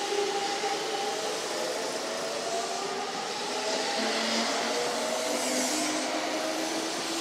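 Kintetsu electric train running through the station, its motors whining in several tones that slowly slide up and down in pitch over a steady rushing noise.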